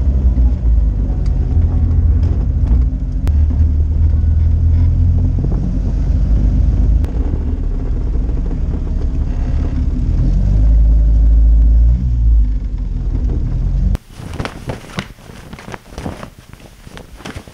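1977 Triumph Spitfire's four-cylinder engine running at low revs, heard from inside the open cockpit while the car moves slowly: a steady low rumble that swells briefly a little before the end. It cuts off abruptly about fourteen seconds in, giving way to quieter sharp clicks and taps.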